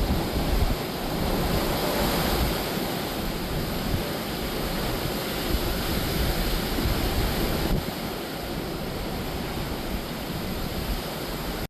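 Hurricane wind and surf: a steady, loud rushing noise, with wind buffeting the microphone in a heavy low rumble.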